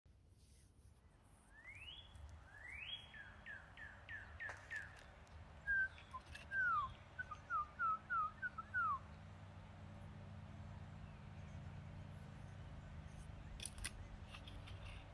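Yellow-rumped warbler song: a run of quick rising notes, then a second phrase of louder down-slurred notes that ends about nine seconds in. After it there is only a faint low background hum.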